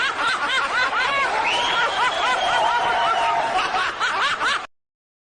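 High-pitched laughter sound effect: rapid repeated giggling with a steady high tone joining for about two seconds in the middle, cutting off abruptly near the end.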